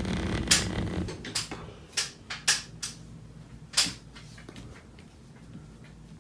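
Scattered sharp clicks and knocks of hands handling the grease and working it onto the garage door track, about seven in the first four seconds, over a low rumble that fades after the first second.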